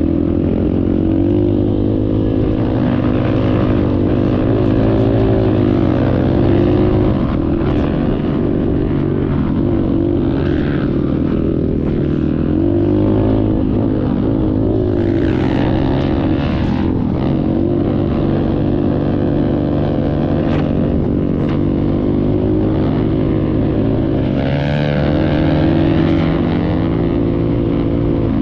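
Dirt bike engine running continuously, its pitch rising and falling again and again as the throttle is opened and closed while riding.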